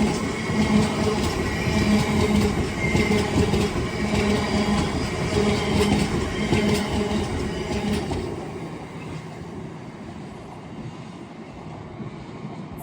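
Freight train wagons rolling past, their wheels clacking rhythmically over the rail joints with a thin wheel squeal. The noise dies down after about eight seconds as the train passes.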